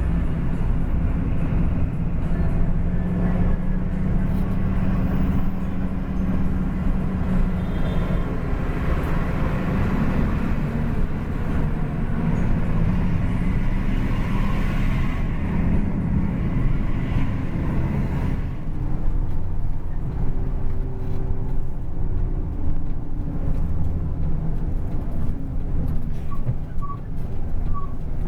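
Coach bus engine and road noise heard from inside the cabin while the bus is under way; the bus is fitted with a racing exhaust. A steady low engine note changes about two-thirds of the way through.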